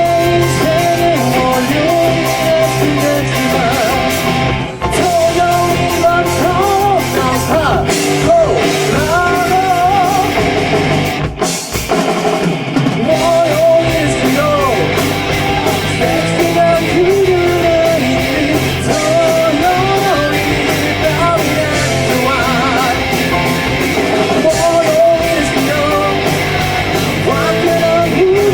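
Rock band playing live: drum kit, bass, electric guitars and keyboard, with a bending lead melody over them. There is a short break in the playing about eleven seconds in.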